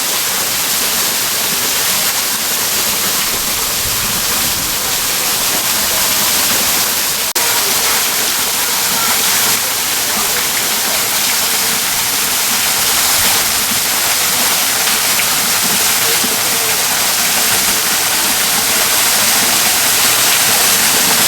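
Steady rush of falling water, a continuous even hiss, with a brief break about seven seconds in.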